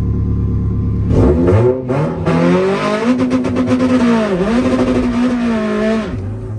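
A car's engine accelerating hard: steady running, then the revs climb sharply about a second in, with drops in pitch at gear changes around two seconds and about four and a half seconds in, and the engine note falls away near the end.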